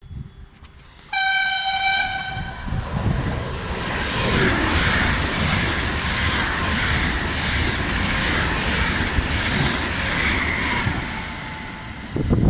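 A train sounds its horn once, a single pitched blast of under two seconds, then passes at speed with a steady rush of wheels and a regular clickety-clack over the rail joints, easing off near the end.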